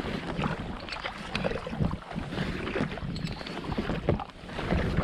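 Paddle blades dipping and splashing in lake water as a packraft is paddled, with wind rumbling on the microphone.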